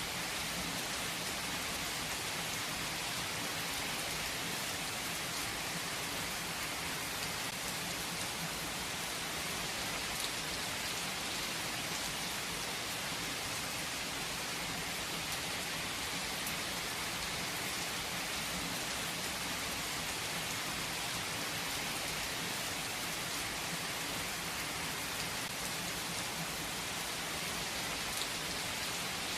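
Steady rain falling: an even hiss, strongest in the high range, with now and then a single louder drop.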